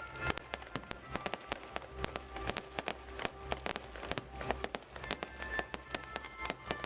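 Fireworks going off in rapid succession, a dense crackle of sharp bangs and pops several times a second, over music with a steady low bass.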